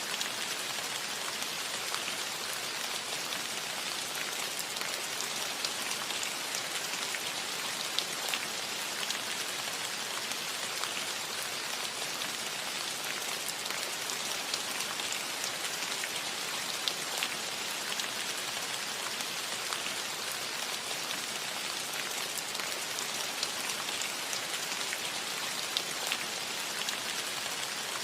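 Gentle, steady rain falling on a metal roof: a dense even hiss of drops with scattered sharper individual drop ticks.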